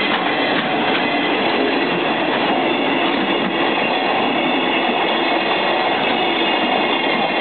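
Freight train's container wagons rolling steadily past close by: the continuous noise of wheels on rails, even in level throughout.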